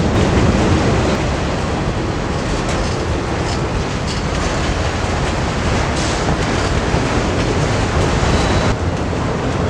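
Norfolk Southern freight train rolling past close by: a steady, loud rush and rumble of wheels on rail, with a few faint clacks.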